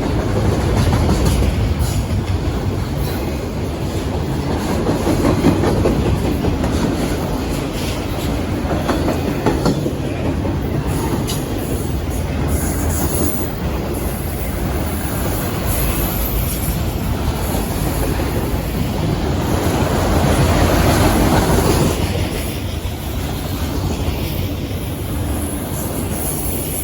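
CSX freight train rolling past, its wheels rumbling steadily on the rails, swelling louder twice, about five seconds in and again about twenty seconds in.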